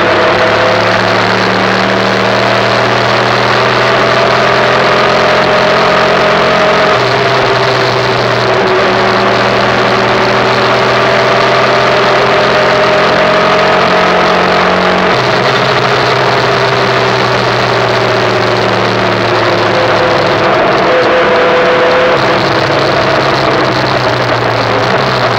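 Derestricted 2005 Yamaha YBR 125's single-cylinder four-stroke engine running while the bike rides along at speed, with wind and road noise. The engine note holds steady for long stretches and steps in pitch a couple of times.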